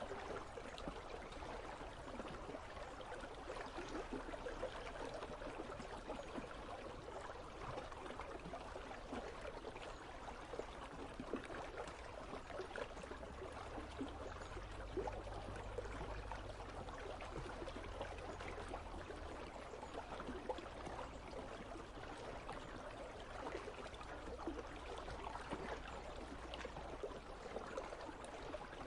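Water of an icy river flowing steadily, a continuous babbling rush, with a faint low rumble underneath through the middle of the stretch.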